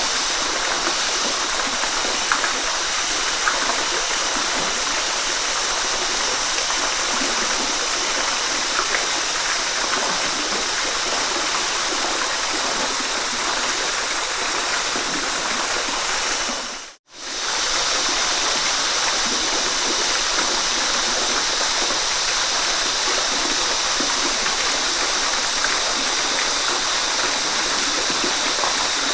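Waterfall: a steady rush of falling water. A little past halfway it dips briefly to silence and comes straight back.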